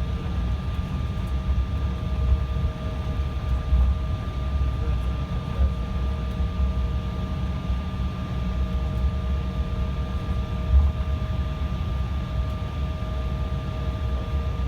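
Embraer regional jet running steadily: a constant low rumble with a steady hum, no rise or fall in pitch.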